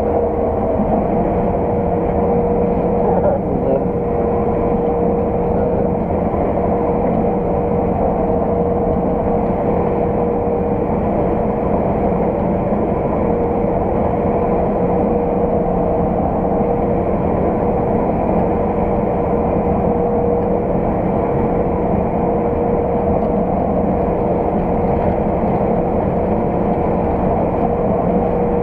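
Steady drone of farm harvest machinery heard from inside a cab, with a constant whine running over a low engine rumble.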